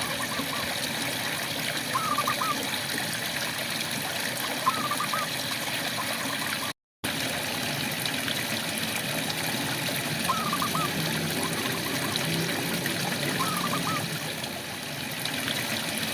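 Steady rain with a frog repeating a short, curling chirp every two to three seconds. The sound cuts out completely for a moment about seven seconds in.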